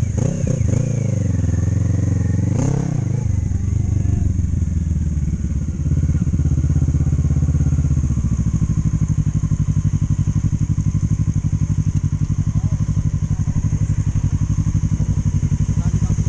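Motorcycle engine running: the revs rise and fall over the first few seconds, then it settles into a steady run with an even pulse.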